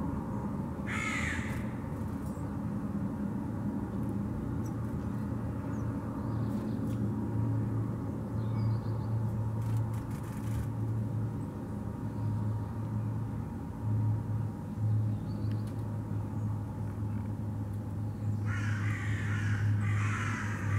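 Harsh bird calls, one short call about a second in and a longer run of calls near the end, over a steady low hum.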